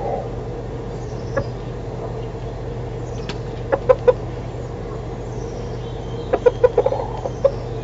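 Domestic chickens clucking in short pitched notes, a few about halfway through and a quicker run near the end, over a steady low hum.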